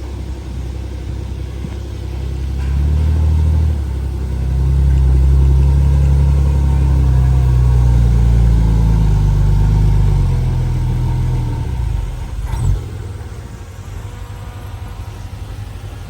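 Heavy diesel engine of earthmoving machinery working under load. It grows louder a few seconds in and stays loud with its pitch shifting, then eases off, with a single sharp clank soon after.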